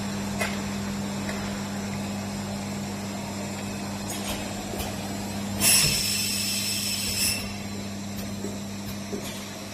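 Four-head air bottle washing machine running with a steady hum and light clicks, and a loud hiss of compressed air lasting under two seconds about halfway through, as the air blows into the bottles.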